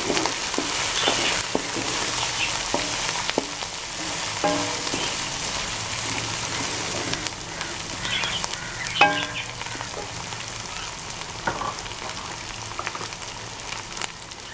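Onions, ginger, garlic and green chillies with cumin and ground coriander sizzling in hot oil in a steel pan. A wooden spatula stirs them, knocking and scraping on the pan. A couple of brief squeaks stand out, the loudest about nine seconds in, and the sizzle eases slowly.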